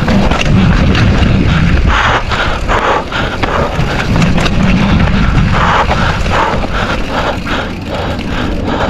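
Mountain bike riding down a rough dirt trail: tyres rolling and rumbling over stones and ruts, with constant rattling and clattering knocks from the bike as it is shaken over the bumps.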